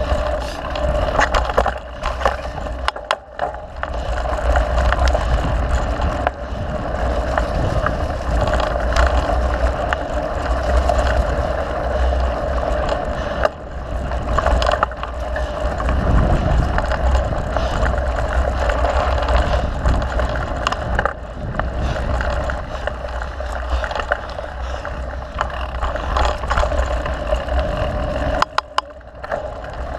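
Mountain bike riding on a dirt trail: wind buffeting the on-bike camera microphone as a steady low rumble, with frequent clicks and rattles from the bike over rough ground.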